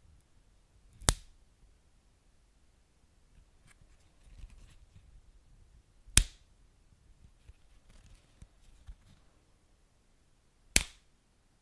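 Wood fire burning in a fireplace: faint small crackles with three sharp, loud pops from the burning logs, about a second in, at the middle, and near the end.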